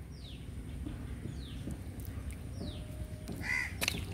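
Birds calling: three short, high, falling chirps about a second apart, with a louder call about three and a half seconds in, over a low rumble.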